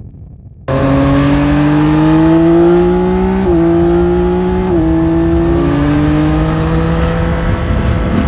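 Yamaha Tracer 9 GT's CP3 three-cylinder engine, recorded raw on the bike: the engine sound cuts in loudly about a second in, its pitch climbing as the motorcycle accelerates, dropping at upshifts around the middle, then holding steady while cruising.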